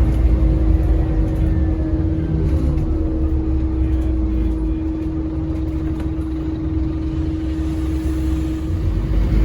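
Scania N230UD double-decker bus running, heard from inside: a deep engine rumble with a steady whine held at one pitch. It eases off slightly in the middle and picks up again near the end.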